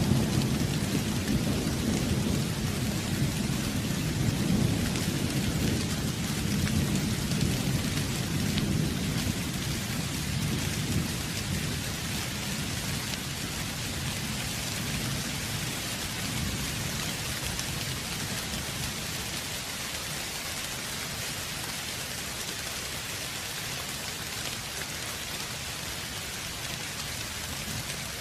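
Steady rain with a long low rumble of thunder that fades away about halfway through, leaving the even hiss of rain.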